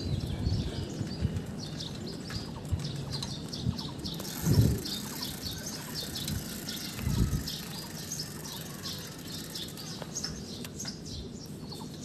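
Small birds chirping over and over, short high calls that keep coming. Underneath is a steady low rumble, with two dull thumps about four and a half and seven seconds in.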